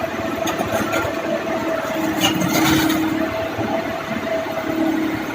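Diesel engine of a heavy construction machine running, with a steady whine that comes and goes for a second or so at a time.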